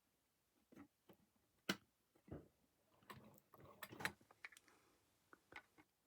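Faint, irregular clicks and light knocks from a model railway locomotive and its track being handled, about a dozen scattered taps with a few fuller knocks in the middle.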